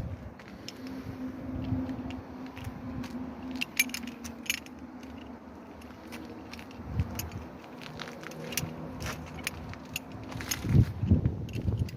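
A steady low machine hum with scattered metallic clinks and rattles.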